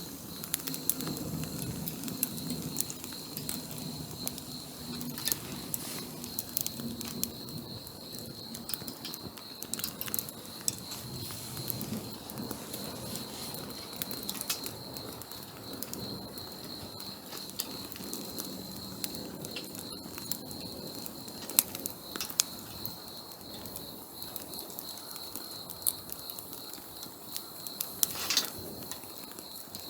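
Wood campfire burning, with irregular sharp pops and crackles, a few louder snaps among them, over a soft low flutter of flame and a steady high-pitched whine.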